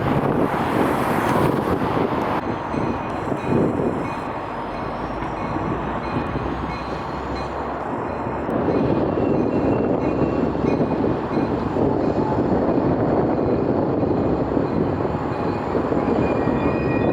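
Jet airliner engines running with a steady, noisy rumble and a faint high whine. Wind hisses on the microphone for the first two seconds, then stops abruptly.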